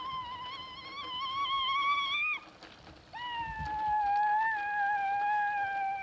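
Two long, wavering animal cries, each held for several seconds. There is a short gap between them, and the second drifts down in pitch and drops away at its end.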